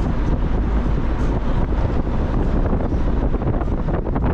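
Wind buffeting the microphone over the engine and road noise of a moving Mazda Miata, steady and loud. A few short knocks come near the end.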